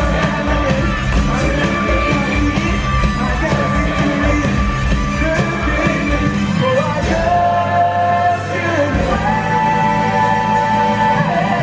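Live stage-show song: singers over a loud amplified band with heavy bass and drums, with long held vocal notes in the second half.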